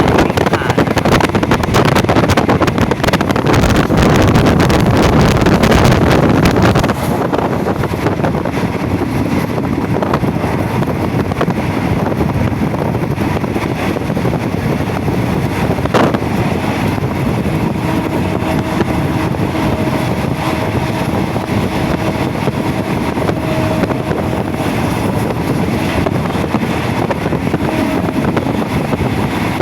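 Running noise of a moving passenger train: a steady rush of wheel, rail and wind noise, with wind buffeting the microphone. It eases a little about a quarter of the way in, and a faint steady hum comes in over the second half.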